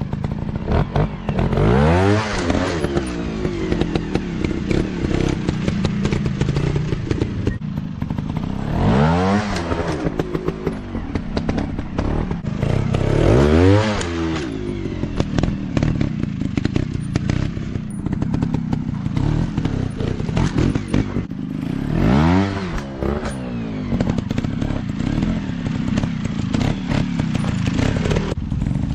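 Off-road dirt bike engines revving, the pitch rising and falling back in about four big sweeps between stretches of lower running, with clatter throughout.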